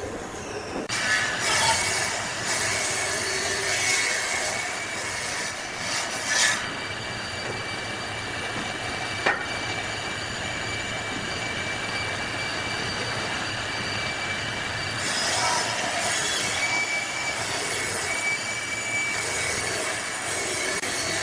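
A tool working wood: a steady high whine over rough scraping and rubbing, swelling louder several times in the first seven seconds, with one sharp click about nine seconds in.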